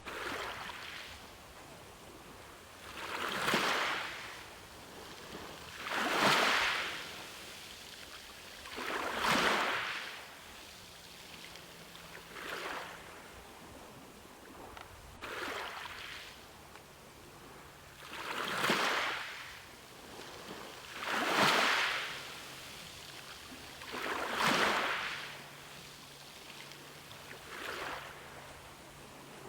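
Ocean waves washing in one after another. Each surge of surf rises and falls over a second or two, about every three seconds.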